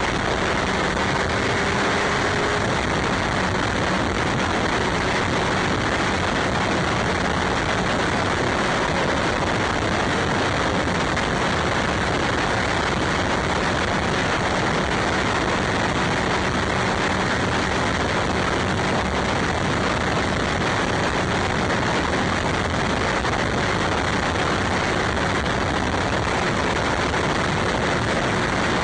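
Steady rush of wind and road noise on a camera riding on a moving bike, with a faint steady engine hum underneath.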